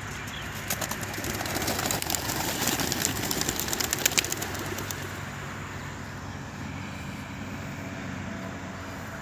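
Racing homer pigeons taking off together in a burst of rapid wing flapping and wing claps, building over the first few seconds and dying away about five seconds in. A steady low engine hum runs underneath.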